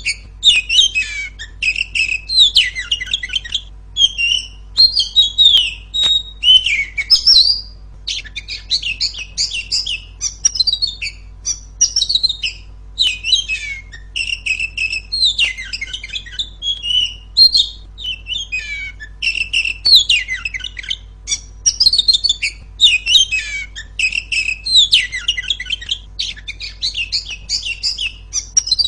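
Female oriental magpie-robin singing loud, quick, varied phrases of rising and falling whistles, one after another with short breaks between them.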